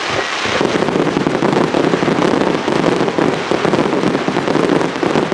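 Aerial fireworks crackling: a dense, continuous crackle of countless small pops from many bursting stars, following a few separate bangs just before.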